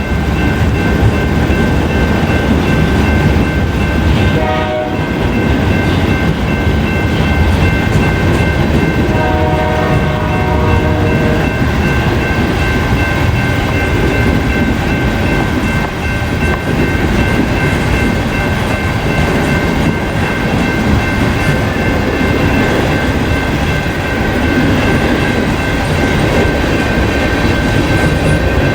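Freight train rolling through a grade crossing with a steady heavy rumble of wheels and cars, and a short horn sounding about ten seconds in.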